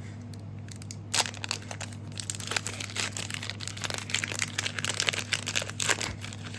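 Plastic booster pack wrapper being torn open and crinkled by hand: a sharp tear about a second in, then a run of irregular crackles.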